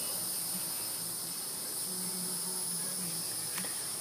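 Steady, high-pitched chorus of insects, several constant shrill tones layered together without a break.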